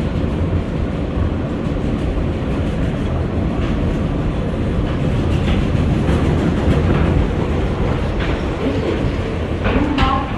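R143 subway train running along the track: a steady low rumble of wheels and running gear, with scattered clicks as the wheels cross rail joints and switches.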